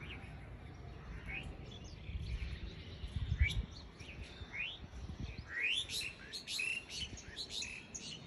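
Small birds chirping: short, quick rising chirps that come sparsely at first and crowd together about five to seven seconds in. A low bump sounds about three and a half seconds in.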